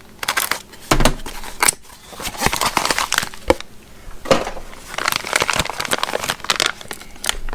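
Plastic packaging bags crinkling and rustling as they are handled, with several sharp clicks and knocks of small parts.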